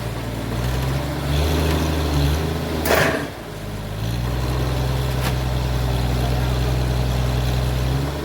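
An engine running steadily at low speed. There is a sharp knock about three seconds in and a lighter one a couple of seconds later, and the engine note settles a little higher soon after the first knock.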